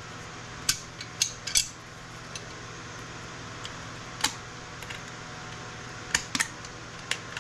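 Hand tools working on a scrap circuit board, giving sharp, irregular metallic clicks and snaps, about eight in all, as components such as potentiometers and a switch are pulled off.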